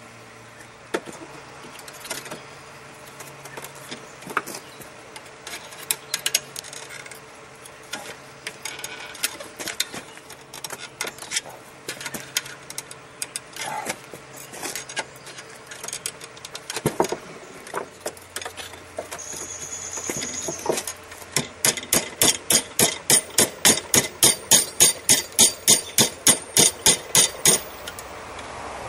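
Scattered clinks and knocks of steel being handled, then, from about two-thirds of the way in, a steady run of hammer blows on hot steel at the anvil, about two and a half a second, as the forged wrap of a railroad spike knife's handle is shaped.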